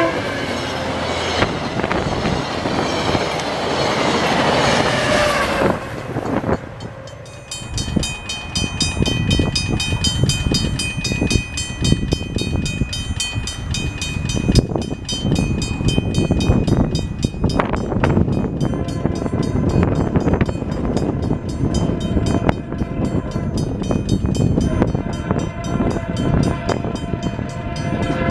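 A VIA Rail passenger train with its F40PH diesel locomotive passes close by for the first six seconds or so. The rush of wheels on rail is loud. After that, a level-crossing signal bell rings rapidly and steadily over a low rumble of an approaching train, and a train horn starts to sound near the end.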